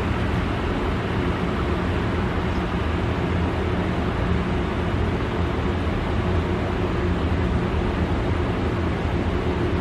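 Steady rush of water flowing in as a gas water heater's tank is refilled after a gas valve replacement.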